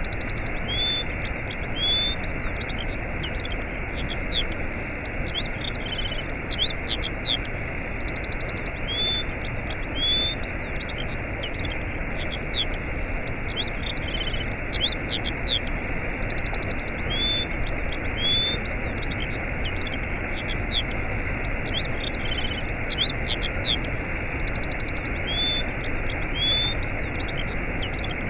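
Steady rushing of a waterfall, with many small birds chirping and trilling high above it. The same run of bird calls comes round again about every eight seconds.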